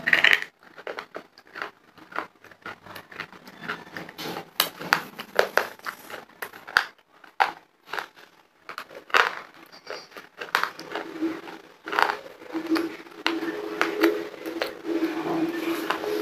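Close-miked crunching and chewing of dried chalk (khadiya) and clay pieces: irregular sharp crunches and crackles, many in quick succession.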